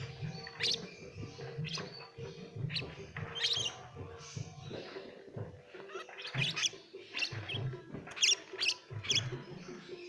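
Pet lovebirds chirping: short, shrill calls repeated irregularly throughout, with low rumbling noises in between.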